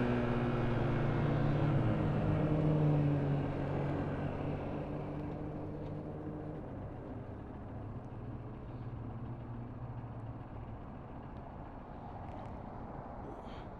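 Motorcycle engine running steadily, its note fading away over the first several seconds and leaving a faint low rumble.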